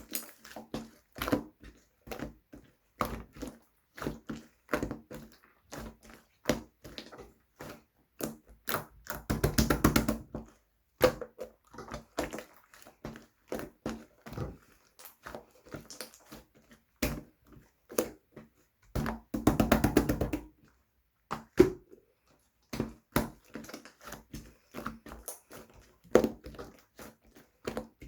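Navy slime topped with pink clay slime being squished and poked by hand: a run of sharp wet clicks and pops, with two stretches of rapid crackling pops about nine and nineteen seconds in.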